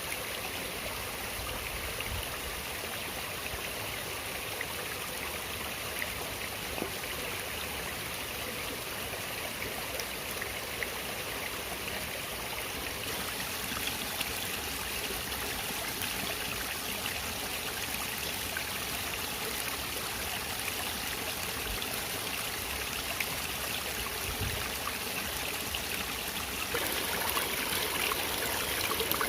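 Flowing stream water, a steady rushing and trickling that gets a little louder near the end.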